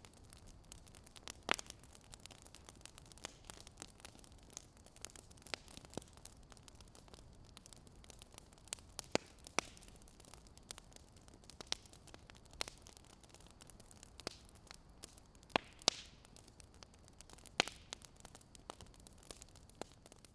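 Wood fire crackling: irregular pops and snaps, a few sharper than the rest, over a faint steady hiss.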